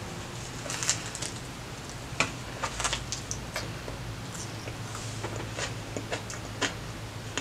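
Close-up chewing of a bite of a Subway steak and cheese sandwich with lettuce: irregular moist clicks and crackles of the mouth working the bread and vegetables, over a low steady hum.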